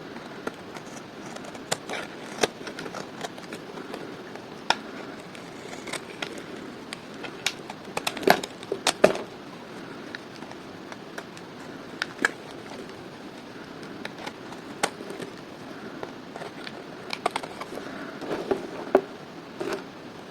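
Dry bar soap being cut with a blade: crisp cracks and snaps at irregular intervals over a steady hiss, with a burst of louder cracks about eight to nine seconds in and another cluster near the end.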